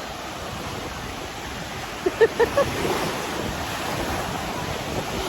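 Ocean waves breaking and washing on the shore, with wind on the microphone; a few short distant voices about two seconds in.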